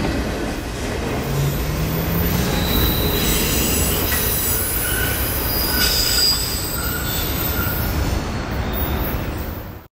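CSX freight train's cars rolling past on the rails, with short high wheel squeals coming and going as the wheels take the curve. The sound cuts off suddenly near the end.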